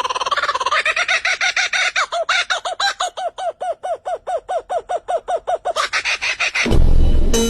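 A bird calling: a held call, then a long, even run of short repeated notes, about five a second. Near the end a sudden, louder and deeper sound cuts in.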